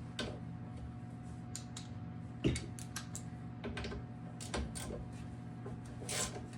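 Scattered clicks and light knocks of hand tools and metal parts while the rear shocks of a 1998 Yamaha PW50 are being taken off, with one sharper knock about two and a half seconds in, over a steady low hum.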